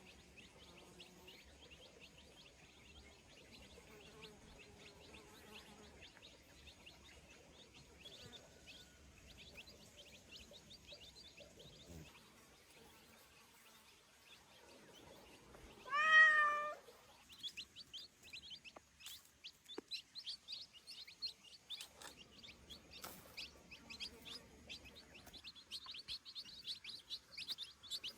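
A cat meows once, loud and drawn out for about a second, roughly halfway through. Small birds chirp constantly around it, busier after the meow.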